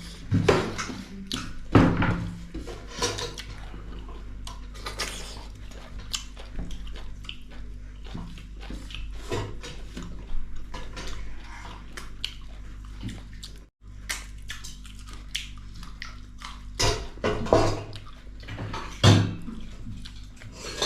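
Close-miked eating sounds: wet chewing and slurping of goat-meat curry and rice, with scattered clicks and smacks throughout.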